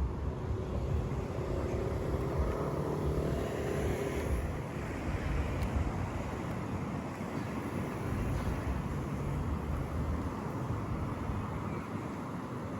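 City street traffic: cars driving past, a steady low rumble of engines and tyres.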